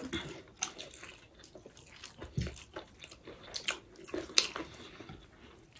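Chewing and mouth sounds of someone eating, with scattered small clicks and soft smacks.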